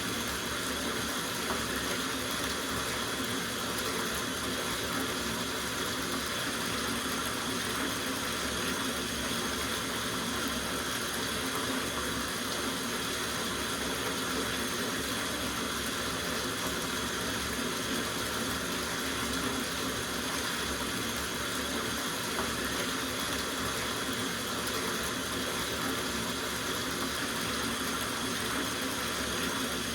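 Water running from a tap into a soaking bathtub, a steady unbroken rush.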